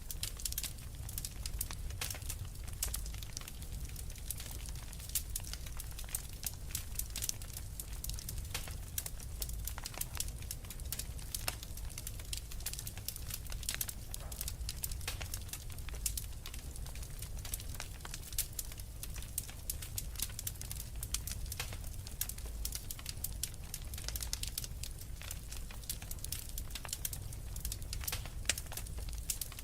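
Wood fire of burning logs crackling: a dense, irregular run of sharp pops and snaps over a steady low rumble of the flames.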